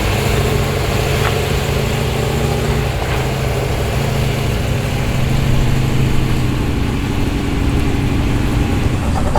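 A car engine idling loudly and steadily at low revs, with a pulsing low rumble.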